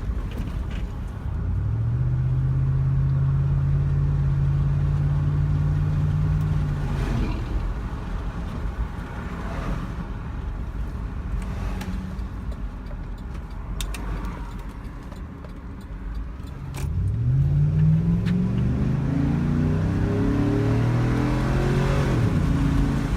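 Exhaust note of a Chevy Tahoe's 5.3 V8 through a broken-in Borla Pro XS muffler, with the stock resonator still in place. The engine goes up about a second in and holds steady for several seconds, then settles back. About 17 s in it revs up again, rising in pitch, and falls off near the end.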